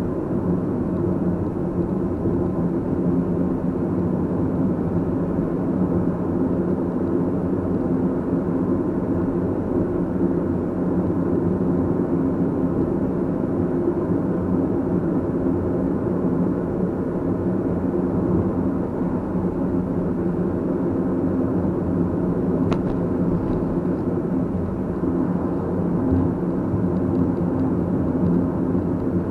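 A car being driven, its steady road and engine rumble running evenly, with one faint click about three-quarters of the way through.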